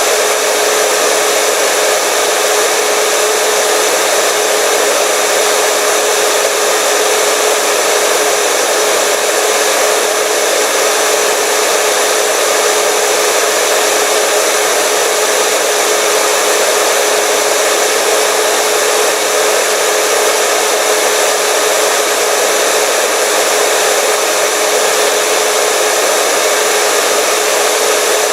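Hair dryer running continuously at a steady speed: an even rush of blown air with a steady motor whine over it, unchanging throughout.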